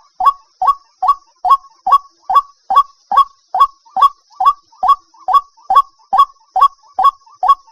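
White-breasted waterhen calling: a monotonous run of short, identical downward-sweeping notes, about two and a half a second.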